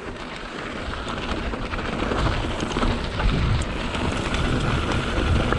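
Mountain bike tyres rolling over a dirt trail, with wind rushing over the microphone: a steady crunching rush with a low rumble that grows a little louder as the bike picks up speed.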